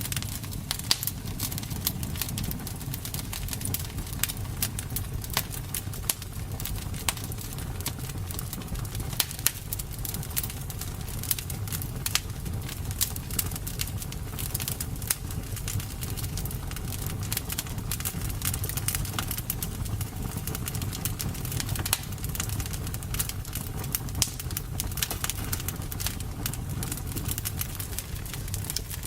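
Campfire burning, with frequent irregular crackles and pops over a steady low rush of the flames.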